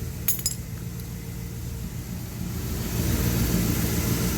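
A pickup truck engine idling steadily, with a quick cluster of sharp metallic clinks about a third of a second in. The idle gets somewhat louder about three seconds in.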